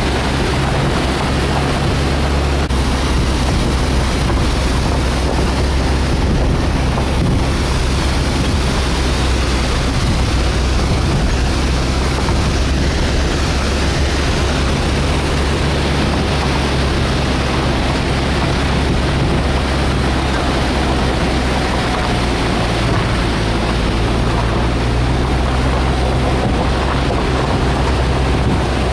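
Vehicle engine droning steadily with wind noise, heard from inside a moving vehicle; the engine note shifts about two-thirds of the way through.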